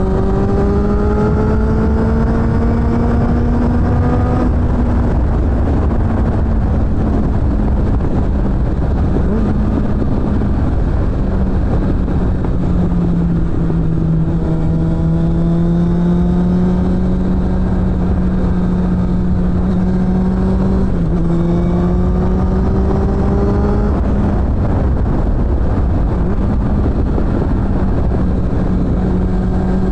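Suzuki GSF600 Bandit's inline-four engine through a BOS aftermarket exhaust, heard while riding. Engine pitch climbs under acceleration in the first few seconds, then holds fairly steady and slowly rises. It drops sharply about 21 seconds in at a gear change and climbs again.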